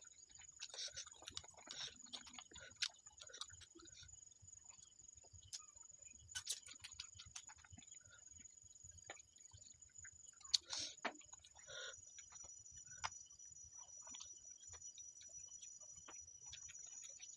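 Very faint sounds of a man eating by hand: scattered soft clicks and mouth noises from chewing, over a thin, steady, high-pitched whine.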